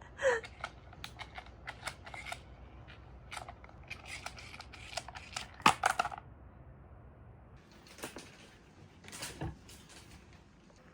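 Scattered light clicks and taps of a baby handling food and tableware while self-feeding, with a few louder clacks about six seconds in and a brief baby sound near the start.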